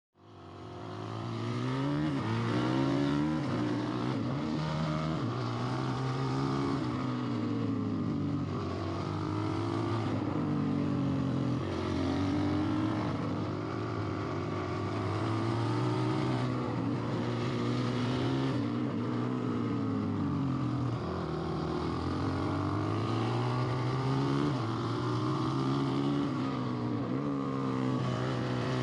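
Small off-road vehicle engine running under a rider, revving up and down every couple of seconds as it is ridden.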